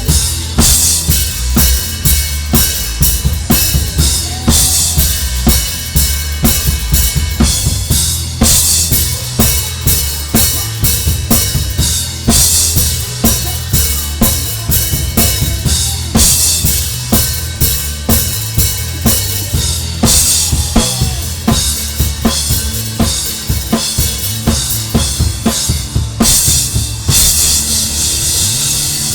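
Drum kit played close up in a live rock band, with bass drum, snare and cymbals driving a steady beat and the band's bass guitar sounding low underneath.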